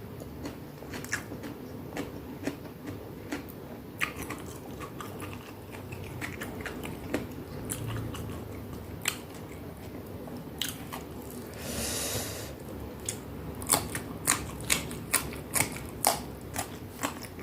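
Close-up eating sounds: a person chewing crisp food, with scattered crunches and a run of loud, sharp crunchy bites about two a second in the last few seconds. A brief hiss comes about twelve seconds in.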